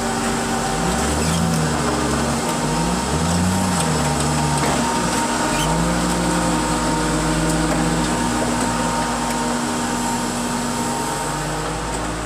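Heavy machinery's engine running with a steady drone, its pitch rising and falling several times as it revs up and down under load.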